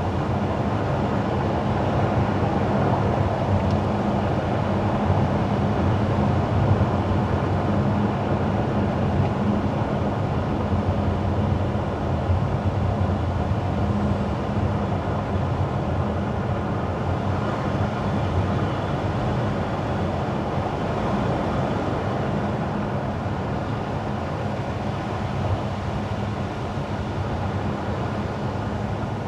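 A car driving on wet asphalt: steady tyre noise on the wet road with a low drivetrain hum underneath.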